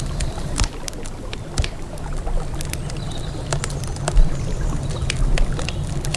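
Wood campfire crackling, with many irregular sharp pops and snaps, over a steady low rumble.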